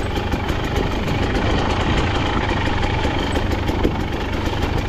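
A KTM 250XC-W dirt bike's two-stroke single-cylinder engine running steadily.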